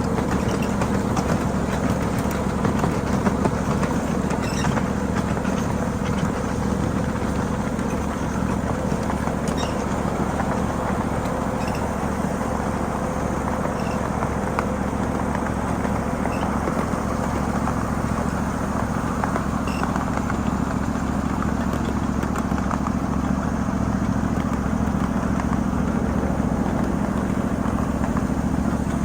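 A 7.5-inch-gauge ride-on miniature freight train running steadily along its track, its locomotive's engine a constant steady hum.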